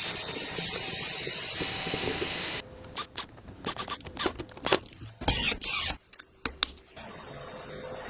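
A steady hiss that cuts off abruptly about two and a half seconds in, followed by a run of sharp clicks and knocks with a few short hissing bursts.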